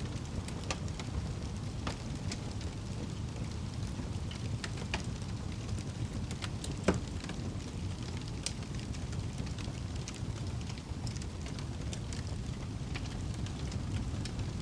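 Wood fire burning in a fireplace: a steady low rush of flame with scattered crackles and pops, one louder pop about seven seconds in.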